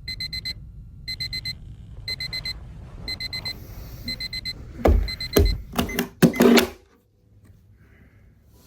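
Electronic alarm beeping in quick groups of short high beeps, about one group a second, then several loud thumps and handling noise as it is silenced about halfway through.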